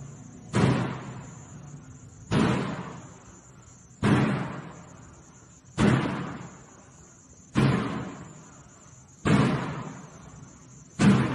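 Unexplained banging: seven heavy bangs at an even pace, about one every 1.7 seconds, each ringing on and dying away over about a second, over a steady high hiss.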